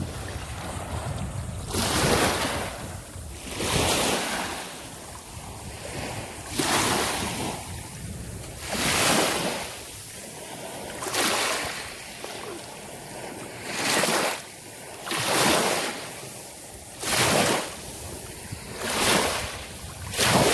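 Small Gulf waves washing up on a sandy beach, one rush of surf about every two seconds, with some wind on the microphone.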